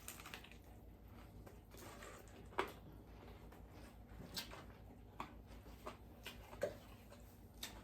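Mostly quiet room with a few faint, scattered clicks and ticks, the loudest about two and a half seconds in.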